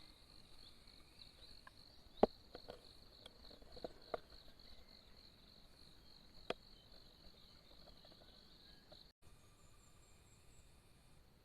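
Crickets chirping in a steady, high, pulsing trill, with a few sharp clicks, the loudest about two seconds in. The trill cuts out briefly about nine seconds in and carries on more faintly.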